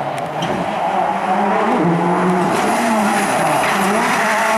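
Rally car engine revving hard on a stage, its pitch rising and falling several times with throttle and gear changes.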